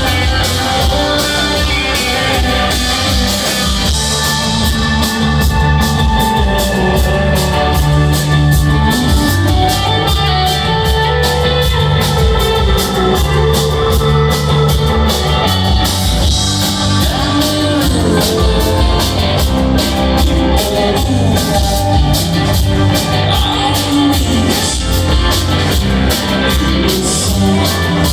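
Rock band playing live, a loud steady jam of guitar over a drum kit keeping a regular beat.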